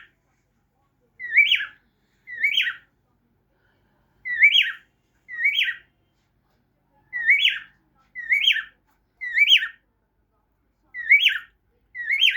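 Cockatiel whistling the same short phrase over and over, a quick rising-and-falling whistle repeated about nine times, mostly in twos and threes.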